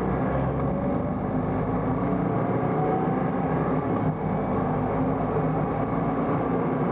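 Volkswagen XL1's two-cylinder 0.8 TDI diesel hybrid drivetrain under full acceleration, its pitch rising slowly and steadily, with a brief dip in loudness about four seconds in.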